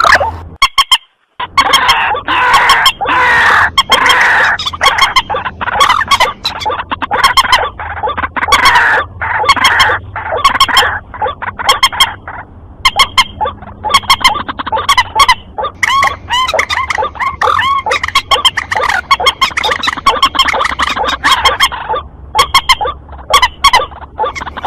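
Bird-lure recording combining the calls of the white-breasted waterhen and the common moorhen, loud and rapidly repeated, with many sharp clicks among the calls. The calls break off for a moment about a second in, then go on.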